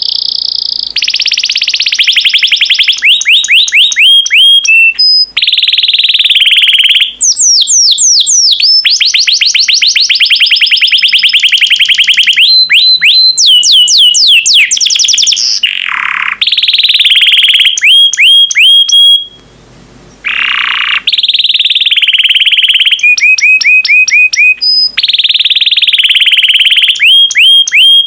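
Domestic canary singing: long, fast rolling trills of rapidly repeated notes, alternating with runs of sharp, downward-sweeping whistled notes, with a brief pause a little over two-thirds of the way through.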